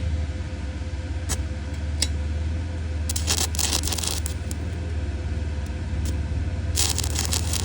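Electric arc welding: the arc crackles and sizzles in short runs, about three seconds in and again near the end, over a steady low hum.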